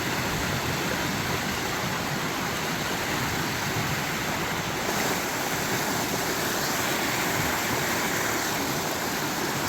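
Creek swollen with floodwater, rushing steadily in an even, unbroken wash of water noise.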